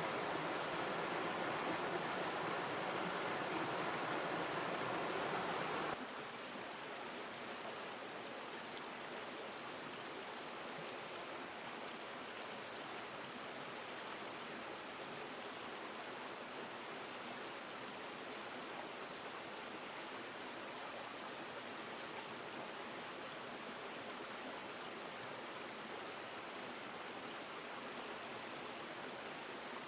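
River stream water flowing as a steady rush, which abruptly drops to a quieter, thinner rush about six seconds in, like a splice between two recordings.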